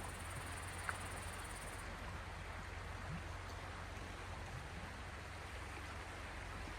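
Small sea waves washing on the shore: a steady, even hiss of water with one small click about a second in.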